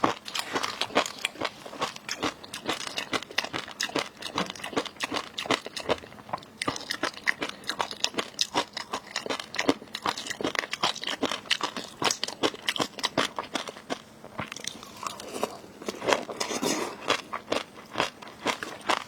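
Close-miked eating: chewing with a rapid, continuous run of sharp crunches and crackles, as raw seafood is bitten and chewed.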